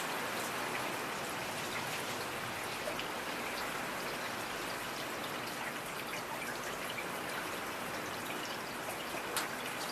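Steady rain falling, an even hiss with many small drops ticking on a surface and one sharper drip near the end.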